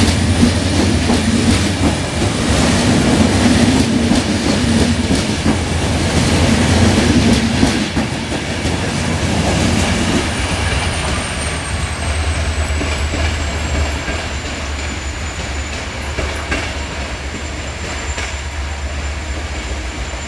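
Passenger coaches of a departing train rolling past, their wheels clicking over the rail joints above a low steady drone; after about eight seconds the sound fades gradually as the train pulls away.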